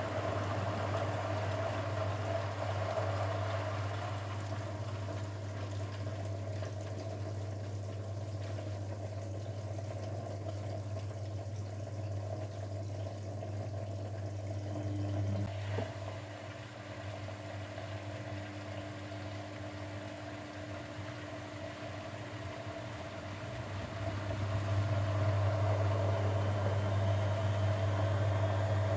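Grundig washing machine running a wash cycle on its Mini 50° programme: a steady motor hum with water sloshing in the drum. A click about halfway through, after which it runs more quietly, and it grows louder again near the end.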